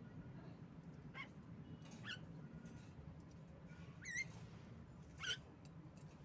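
Female Javan myna (jalak kebo) calling: four short, sharp, squeaky calls about a second apart, over a faint steady low hum.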